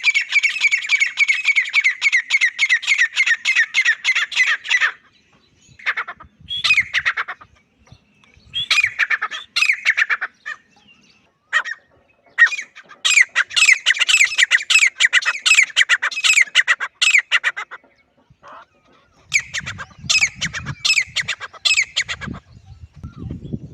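Grey francolin calling: harsh, loud, rapidly repeated notes in long runs, broken by a few short bursts and pauses.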